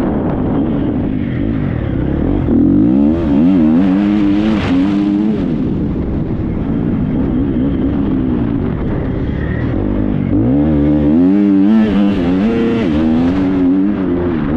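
Triumph 250 motocross bike's single-cylinder four-stroke engine revving up and down under riding load, the pitch climbing sharply about three seconds in and again about ten seconds in, with drops between.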